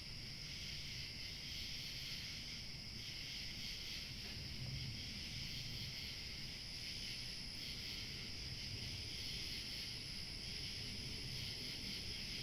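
Evening chorus of crickets chirping steadily in a continuous high shimmer, over a low background rumble. A faint, thin, higher-pitched tone joins about halfway through.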